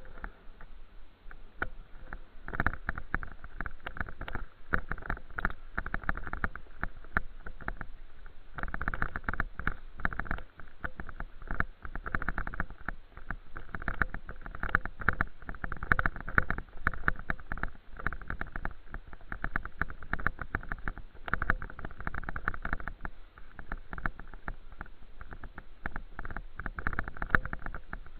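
Bicycle being ridden, with an uneven rattling, clattering noise and low rumble throughout.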